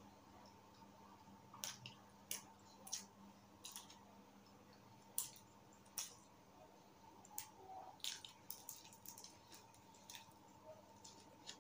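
Quiet, close-miked eating: scattered short wet mouth clicks and smacks of chewing, over a faint steady hum.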